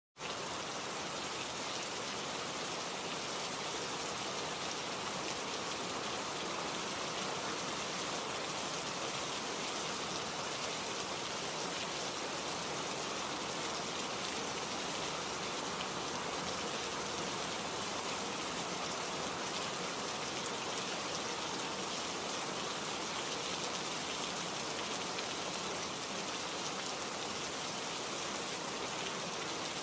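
Steady rain falling, an even hiss of many drops without letting up.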